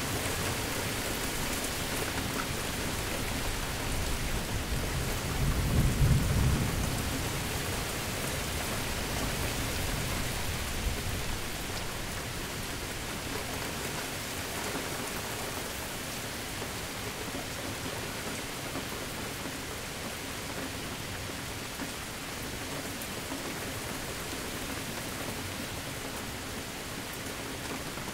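Steady heavy rain falling, with one low roll of thunder that swells about five seconds in, peaks a second later and dies away over a few seconds.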